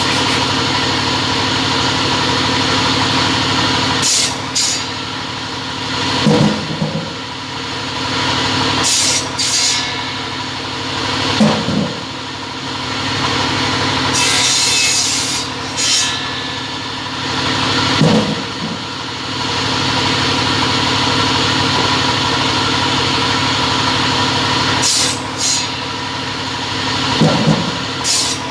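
Double-head cutting saw running with a steady motor hum, making repeated short, sharp cutting bursts every few seconds, with one longer hiss about halfway through.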